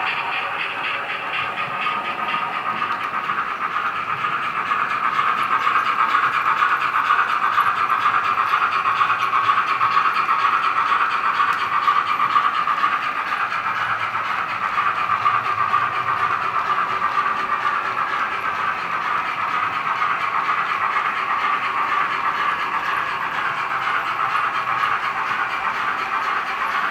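Onboard sound decoder of an H0-scale Roco model of a class 44 three-cylinder steam locomotive (Henning sound), playing steam chuffs in the three-beat rhythm of a three-cylinder engine, with hiss. Steady and continuous, heard through the model's small speaker, so it sits mostly in the mid and upper range with little bass.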